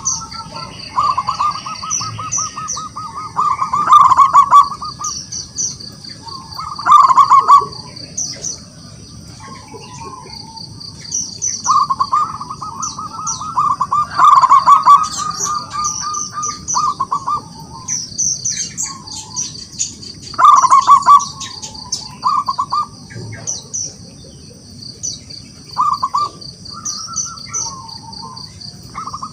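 Zebra dove (perkutut) cooing: repeated phrases of fast-pulsed coos, each lasting a second or more, with short pauses between them. Smaller birds chirp high and thin throughout.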